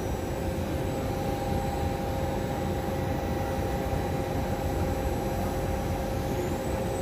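Standing Vivalto double-deck electric regional train humming steadily: a broad rush with two held tones, and a faint rising whine near the end.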